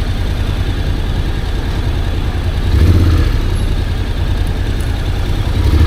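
Motorcycle engine running steadily with a low rumble, swelling louder briefly about three seconds in and again near the end.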